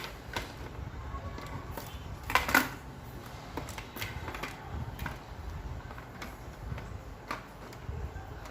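Light plastic clicks and knocks as the air cooler's louver blades are handled and fitted into place, the loudest a pair of knocks about two and a half seconds in.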